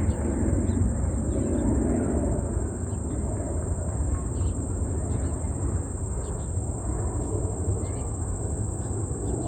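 Outdoor ambience: a steady high-pitched whine over a low rumble, with short faint chirps scattered through.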